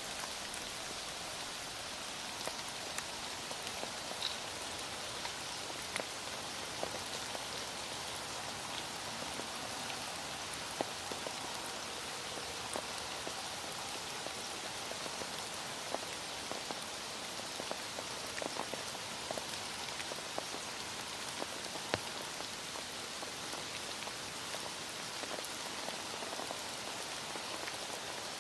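Heavy rain falling steadily, with scattered individual drops ticking sharply now and then over the even patter.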